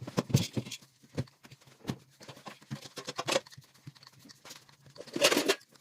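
Rolling pin rolling out pastry dough on a board, with irregular light knocks and taps, and a brief louder scraping rustle about five seconds in.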